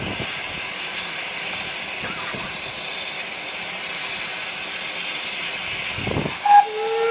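Narrow-gauge steam locomotive hissing steam steadily. About six and a half seconds in, its steam whistle sounds, several steady tones at once, still going at the end.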